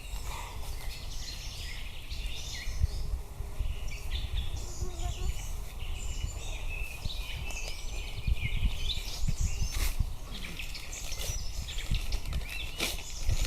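Several wild birds singing and chirping, many short calls overlapping, over a low rumble on the microphone. Two sharp clicks sound near the end.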